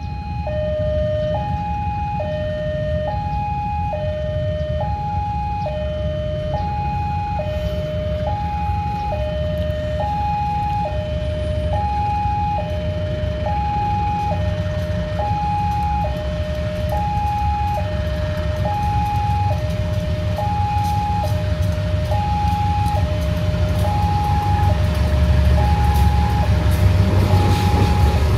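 A two-tone electronic warning alarm sounds steadily, alternating a high and a low note about every 0.7 s, over the rumble of two CC 201 diesel-electric locomotives approaching. The engine rumble grows louder toward the end as the train arrives, with wheel clatter on the rails near the end.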